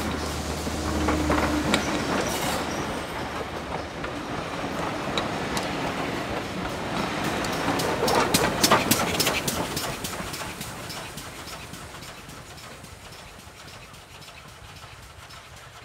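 Steam-hauled passenger train passing at close range, the carriage wheels clicking over the rail joints, with a GWR small prairie tank engine, 5553, passing at the rear about eight seconds in. The sound then fades steadily as the train draws away.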